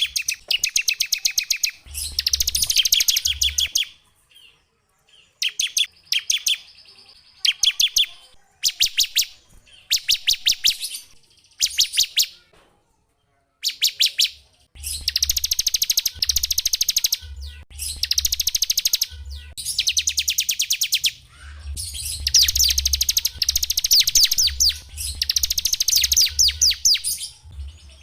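Small songbird singing rapid, high trills in phrases lasting one to a few seconds, broken by short pauses, with the phrases running longer and closer together in the second half.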